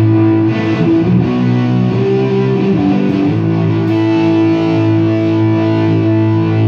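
Takamine GX-100 electric guitar with DiMarzio pickups played through a small lunchbox tube amp head: a few chord changes in the first three seconds or so, then a chord held and left ringing.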